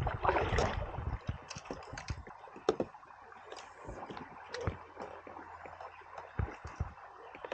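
Light, irregular clicks and knocks over a faint water sound, from a kayak angler casting and working a lure with rod and reel. There is a louder noisy burst in the first second.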